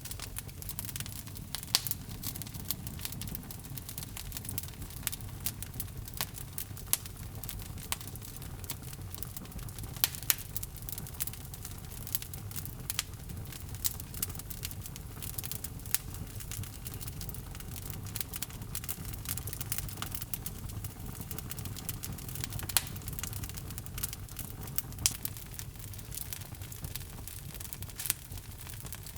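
Log fire burning in a fireplace, with a steady low rumble and irregular sharp crackles and pops throughout, a few of them loud.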